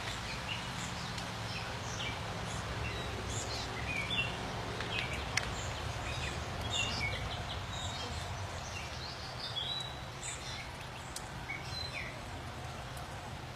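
Several songbirds chirping and calling in short, scattered notes over a steady low background noise, with one sharp click about five seconds in.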